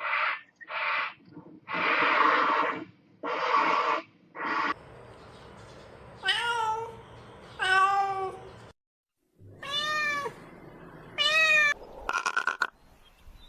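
An animal's meow-like calls: five short breathy bursts, then four drawn-out calls with bending pitch, and a quick run of rapid pulses near the end.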